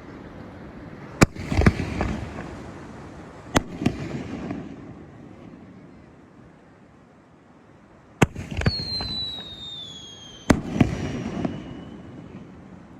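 Fireworks going off: four pairs of sharp bangs, each pair followed by a rumbling, crackling echo. About nine seconds in, a thin whistle falls steadily in pitch for a couple of seconds.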